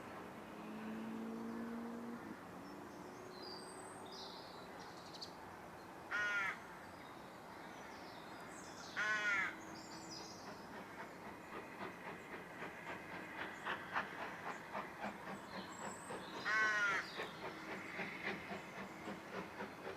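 Steam train approaching, its rhythmic beats growing louder through the second half. Over it come three loud, harsh bird calls.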